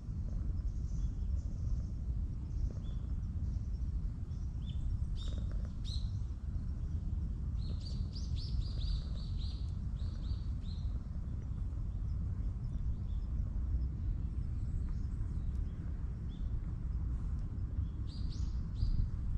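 Small birds chirping in short calls, with a quick run of chirps from about eight to eleven seconds in, over a steady low outdoor rumble.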